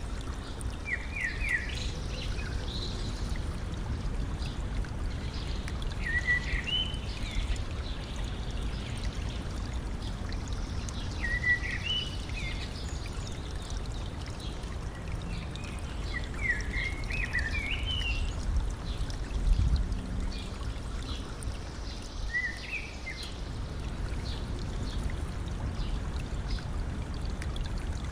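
Stream running and trickling steadily, with a bird singing short phrases about every five seconds.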